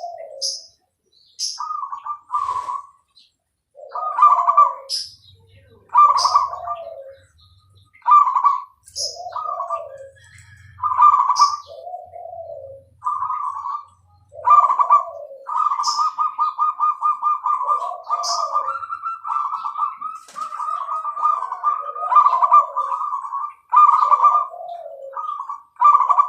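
Zebra dove (perkutut) cooing over and over in its rhythmic song phrases, each a quick run of higher coos falling to lower ones, with a long rolling trilled coo about two-thirds of the way in. Short, sharp high chirps of another small bird cut in between the phrases.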